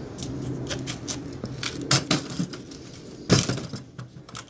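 Irregular light clicks and clinks of small hard objects being handled, with two louder knocks about two and three and a half seconds in.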